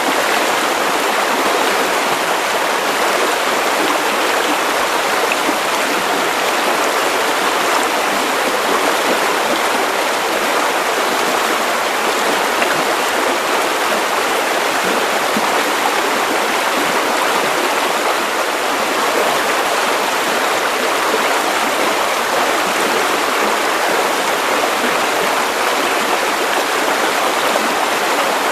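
Steady white noise for sleep: an even, unchanging hiss with little deep rumble, much like rushing water.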